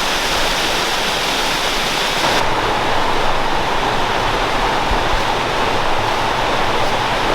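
Waterfalls running high after heavy rain: a loud, steady rush of falling water, its highest hiss dropping slightly about two seconds in.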